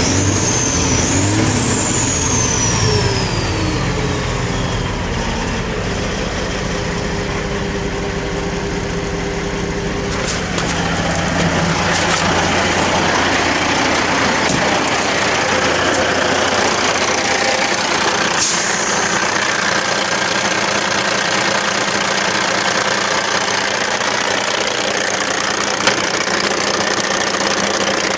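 Heavy diesel engine of a 2002 Kenworth C500 winch tractor running. The revs fall away over the first few seconds, then it runs steadily, and from about ten seconds in the sound turns rougher and noisier.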